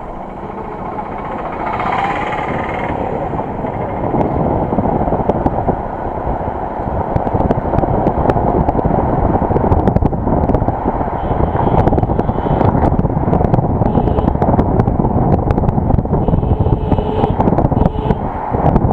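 Loud, steady road and wind noise of a vehicle being driven, picked up by an action camera. It grows louder over the first few seconds, and scattered knocks run through it.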